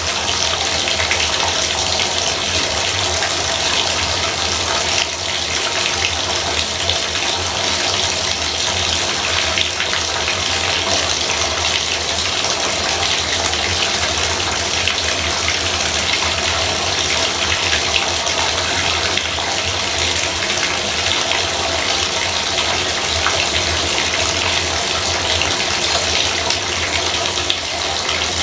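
Bathtub faucet running steadily, water pouring in an even, unbroken stream with a faint low hum beneath it.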